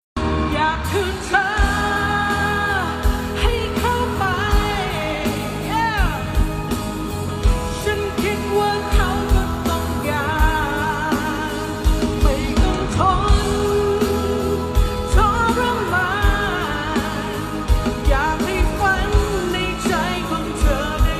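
Thai pop song from the 1990s: a woman singing with vibrato on held notes over a band with a steady drum beat.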